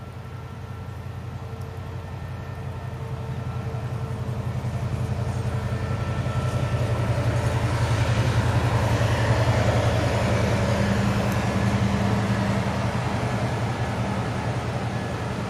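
Diesel-hauled train passing, its engine rumble and wheel noise growing louder to a peak about halfway through, then slowly easing off.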